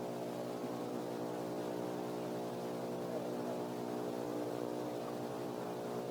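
Steady electrical hum with a row of evenly spaced overtones, holding at one pitch and one level throughout, like mains buzz in a sound system.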